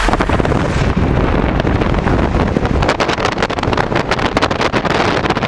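Car driving fast with loud, rough wind buffeting on the microphone over a low engine and road rumble.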